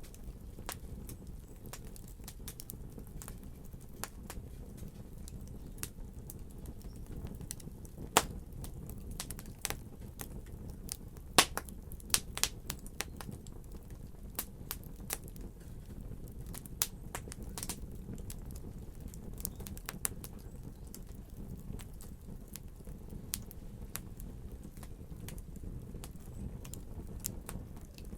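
Wood fire crackling: a steady low rumble under frequent sharp pops and snaps, two of them louder, about a third of the way in and again a few seconds later.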